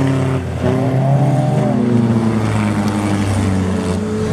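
Engines of several demolition-derby cars revving at once, their pitches rising and falling against each other.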